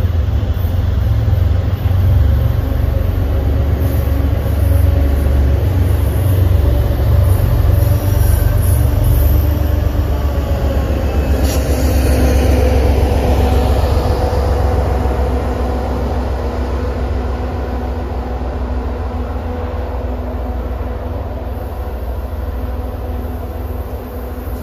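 MBTA commuter train's passenger coaches rolling past on curved track, a steady rail rumble with faint wheel-hum tones, easing off somewhat in the second half as the train draws away.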